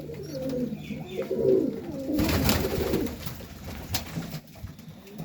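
Pigeons cooing in a loft, low rolling calls overlapping, with a couple of short rustles or knocks.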